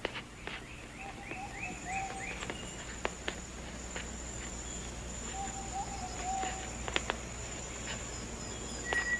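Rainforest ambience: a steady high insect drone from about a second in, runs of short chirps, two low warbling calls and a few sharp clicks. A clear whistled note starts near the end.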